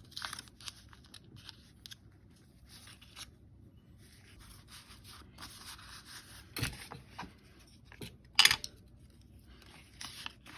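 Paper edges being roughed up by hand: short, uneven rubbing and scraping strokes over the paper, with a sharp knock or tap about eight and a half seconds in.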